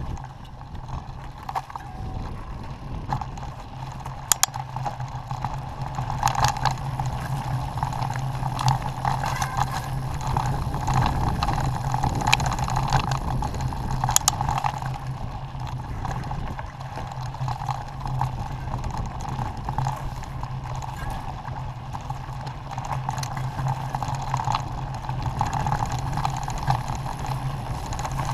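An off-road vehicle's engine running steadily as it is ridden along a rough trail, with rattles and a few sharp knocks, the clearest about four and fourteen seconds in.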